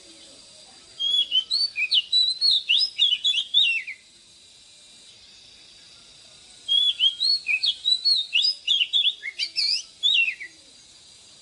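Oriental magpie-robin singing two phrases of rapid, varied whistled notes, each about three seconds long, with a pause of a few seconds between them.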